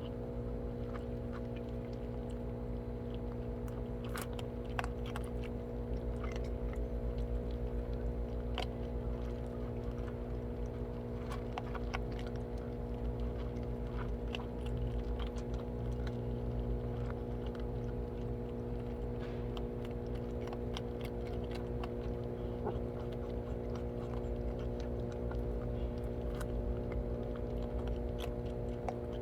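Cats crunching and chewing food, scattered small crisp clicks over a steady mechanical hum.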